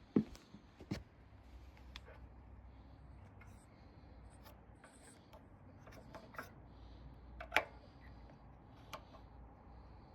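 Scattered light clicks and knocks, the loudest just after the start and about seven and a half seconds in, over a faint low hum.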